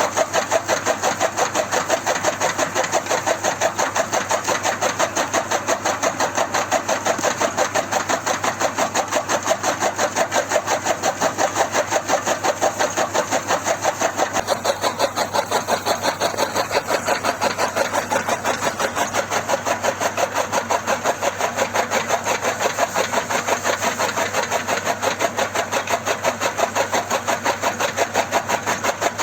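An engine-like machine running steadily with a rapid, even pulse, the drive of the mini chaff cutter machine.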